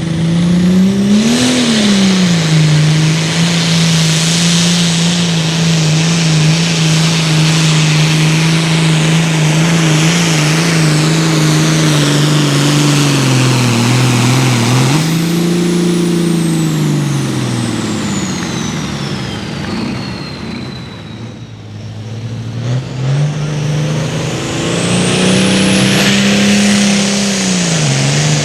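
Turbocharged diesel engine of a Super Farm class pulling tractor, held at high revs under full load down the pull track, with a high turbo whistle. The revs dip and climb several times, the engine eases off around two-thirds of the way through, then revs up hard again, the turbo whistle rising with it.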